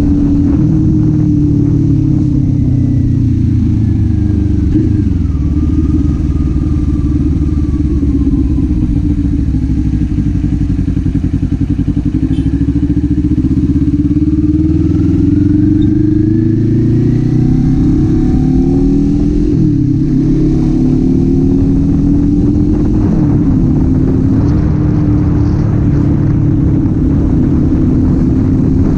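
Kawasaki Z400's parallel-twin engine pulling the bike along. The revs fall over the first few seconds, stay low, then climb again about halfway through. They drop once more soon after and rise and fall a few times near the end.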